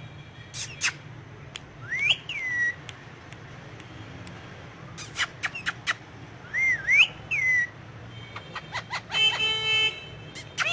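Indian ringneck parakeet giving short whistles that swoop up and fall back, mixed with sharp clicks, and a buzzy, rasping call near the end.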